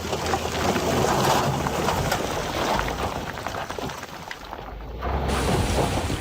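Heavy earthmoving machinery working loose stone: a steady rush of rattling, clattering rock with many small clicks over a low engine rumble. It eases off a little in the second half and swells again near the end.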